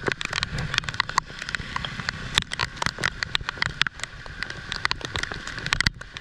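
Heavy rain: a steady hiss with many sharp, irregular drop hits close by.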